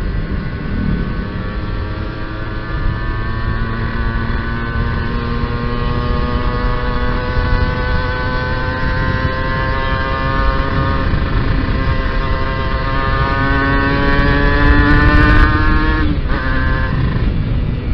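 Kawasaki Ninja R 150 cc two-stroke single pulling under steady throttle while riding, its note climbing slowly and evenly over a rush of wind on the microphone. About sixteen seconds in the engine note drops away abruptly.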